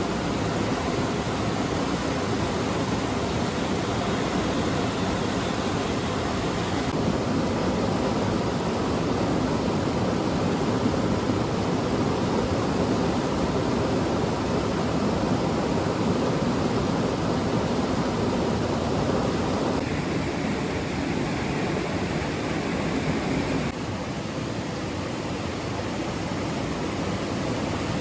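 A steady rush of water, a dense even noise without distinct splashes. It changes character about 7 and 20 seconds in, and turns a little quieter about 24 seconds in.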